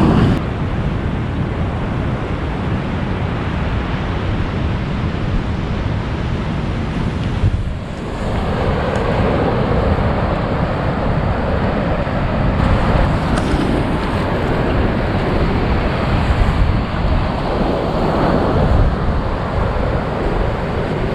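Heavy ocean surf breaking and washing in at high tide, a steady roar of water that swells louder twice, with strong wind buffeting the microphone.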